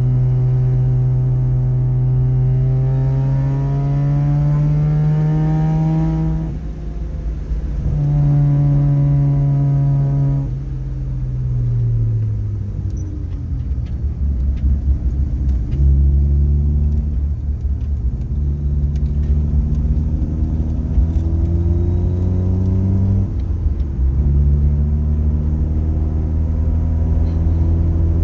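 Mazda RX-7's rotary engine, fed by a Weber 48 IDA carburettor with 3D-printed velocity stacks, pulling hard under throttle from inside the car: the pitch climbs for about six seconds, breaks for a gear change, climbs again, then falls away as the throttle lifts about ten seconds in. After that it runs at lower revs, with one more short rise that cuts off suddenly a few seconds before the end.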